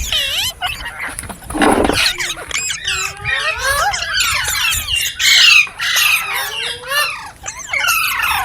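Green parrot chattering: quick, overlapping chirps and whistles that sweep up and down in pitch, with a harsh screech about a second and a half in.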